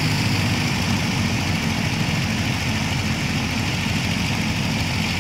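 Beech 18's two radial engines running at full power with a steady, pulsing drone as the twin-engine plane takes off.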